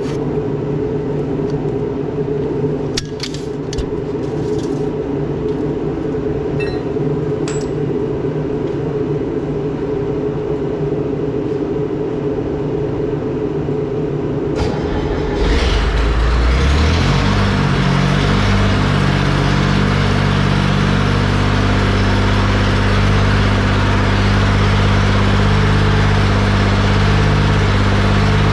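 Gehl paver's engine running steadily, then about fifteen seconds in it speeds up and holds a louder, higher running speed. A few faint clicks sound in the first several seconds.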